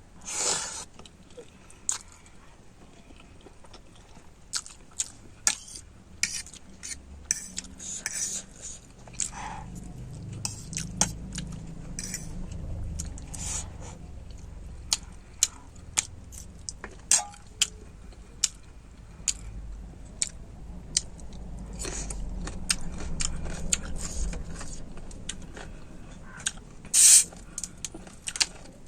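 Eating close to the microphone: cutlery clicking and clinking against a bowl many times, with chewing underneath. The loudest clink comes near the end.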